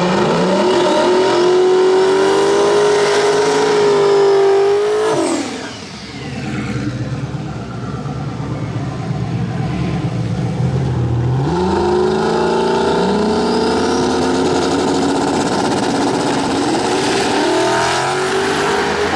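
Drag race cars running at full throttle down the strip. An engine climbs to a high, held pitch and then falls away sharply about five seconds in. From about eleven seconds another engine climbs in repeated rising steps through its gear changes.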